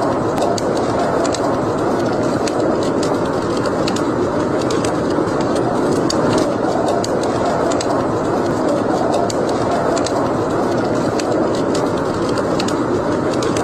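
Wood fire burning in a fireplace: a steady rush of flames with frequent sharp crackles and pops.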